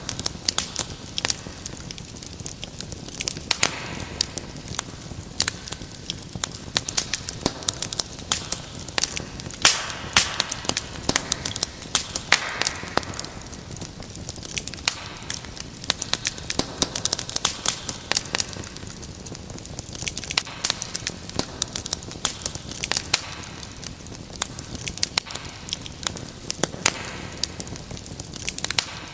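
Wood fire burning with dense, irregular crackling and popping over a steady soft hiss.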